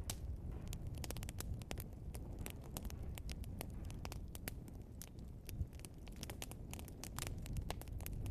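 Wood fire of burning logs crackling and popping, with many small irregular snaps over a low steady rumble of the flames.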